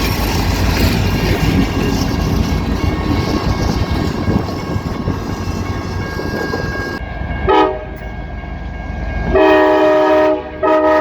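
A loud, steady rumble that drops away about nine seconds in, with a chorded air horn sounding over it: one short blast, then a longer blast and a second blast near the end.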